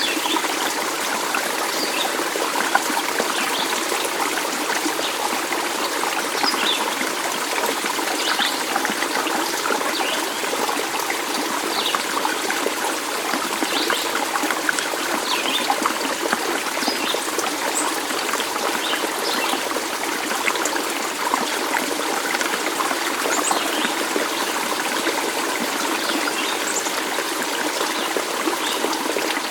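A stream running and trickling steadily, with many short, faint high chirps scattered through it.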